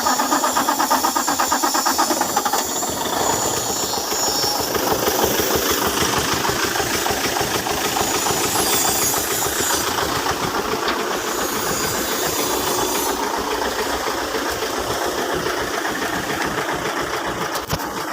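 Mitsubishi 8M21 V8 diesel engine running steadily just after being started, with a fast, even diesel knock. This engine has a hard-starting, low-power, black-smoke complaint.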